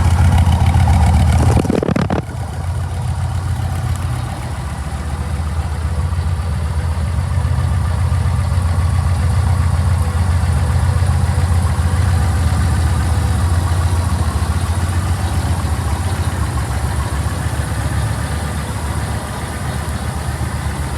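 Yamaha MT-01's 1670 cc V-twin idling with a steady, low, loping rumble. About two seconds in there is a short burst of noise, and the engine settles to a slightly quieter idle.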